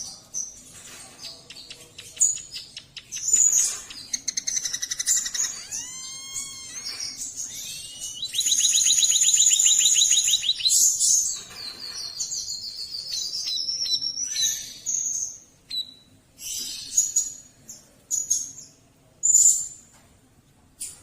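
White-headed munia (emprit kaji) singing a varied song of high chirps and gliding notes, with a long fast buzzy trill near the middle and scattered short calls toward the end.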